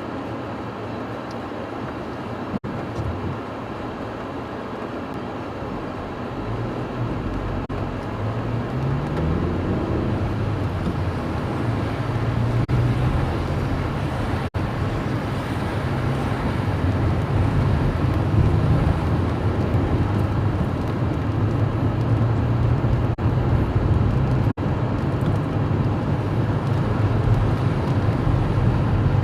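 Car driving, heard from inside the cabin: the engine note climbs as it speeds up about seven seconds in, then settles into steady engine and road noise.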